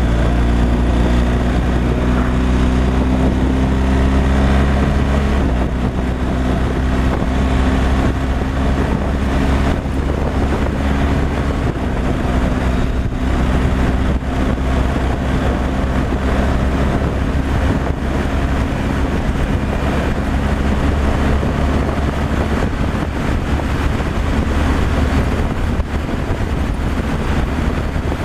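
Semi truck's diesel engine running steadily while driving, over constant road and wind noise. The engine note steps down a little about five seconds in and then holds.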